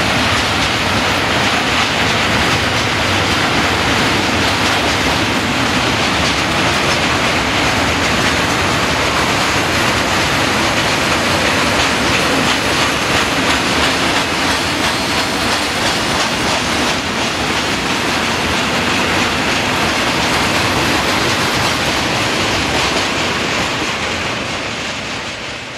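Freight train of tank wagons passing close, with a steady, loud noise of wheels running over the rails. The sound dies away over the last few seconds as the end of the train goes by.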